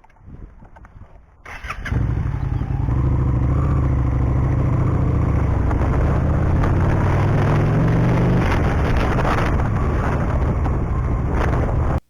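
Motorcycle engine running loud from about two seconds in, its pitch climbing gradually as the bike gets under way, then holding steady. It cuts off suddenly near the end.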